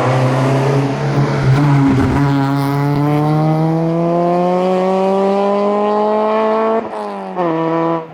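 Peugeot 206 hillclimb car's engine at full throttle. Its revs hold steady for about two seconds, then climb steadily through one long gear. Near the end come two quick upshifts, the revs dropping at each, as the car pulls away.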